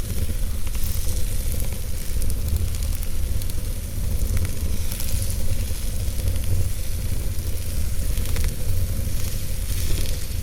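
Wood fire burning in a fireplace: a steady low rumble and hiss, with scattered sharp crackles from the burning logs.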